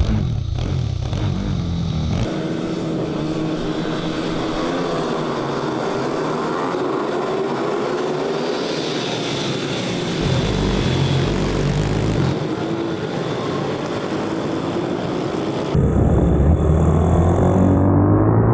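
Several pitbike engines revving up and down as the bikes race through tight corners, their pitch rising and falling. The sound changes abruptly about two seconds in and again near the end, when a heavier low sound comes in.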